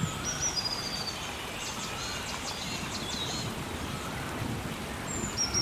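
Rainforest ambience: steady rain with birds calling over it, a short whistled call near the start and again near the end, and a burst of high chattering in the middle.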